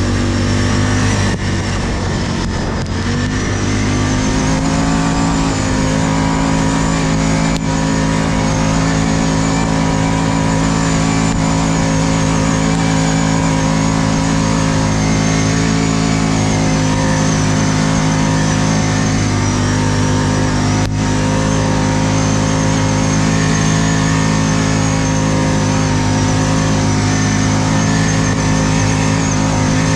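ATV engine running under steady throttle. Its pitch steps up about three seconds in and then holds nearly even.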